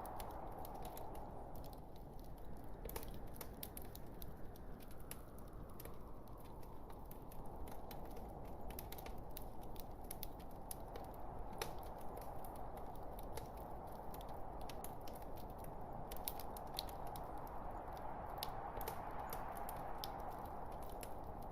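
Log fire crackling: many small sharp pops and snaps at irregular intervals over a steady rushing hiss of the flames that eases off a few seconds in and swells again near the end.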